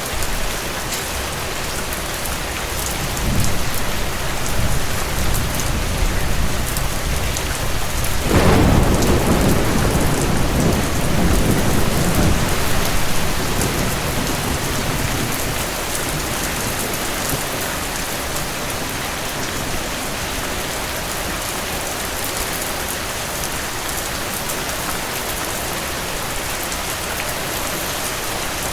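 Steady heavy rain falling, with thunder: a low rumble builds a few seconds in, then a clap about eight seconds in rolls on for several seconds before fading back to the rain.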